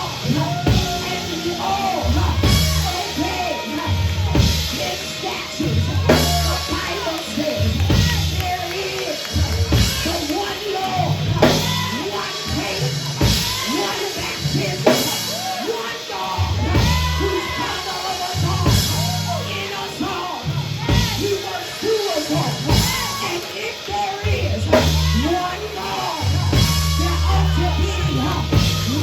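Church band music with a drum kit keeping a steady beat over bass and guitar, with voices singing along.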